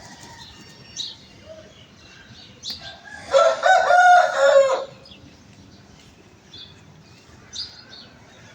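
A rooster crows once, a call of about a second and a half, about three seconds in. Short high chirps come before and after it.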